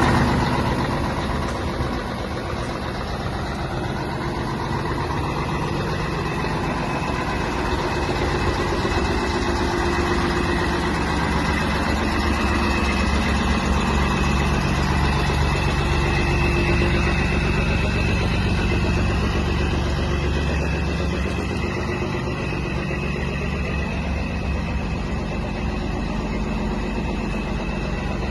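Scania 113 360 truck's 11-litre straight-six diesel running, mostly at a steady idle, its pitch drifting gently up and down now and then.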